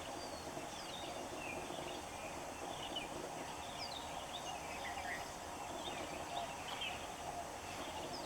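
Several birds calling, many short falling chirps scattered throughout, over a steady background hum.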